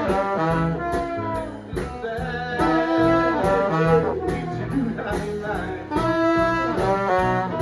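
Live swing band playing an instrumental passage between sung lines: horns carry held melody notes over a walking bass and drums, with steady cymbal strokes keeping the beat.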